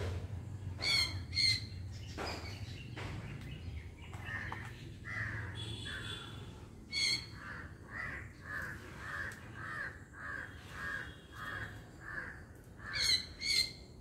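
A bird mimicking a parrot's calls: short harsh screeches, two about a second in, one about seven seconds in and two near the end. Between them comes a run of about a dozen short repeated notes, roughly one and a half a second.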